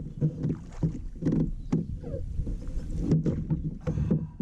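A kayak under way on a lake: water rumbling and sloshing against the plastic hull, with frequent irregular knocks and clicks on the boat.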